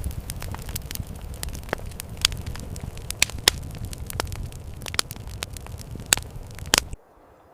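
Wood campfire burning with a low rumble and irregular sharp crackles and pops, which cut off abruptly near the end.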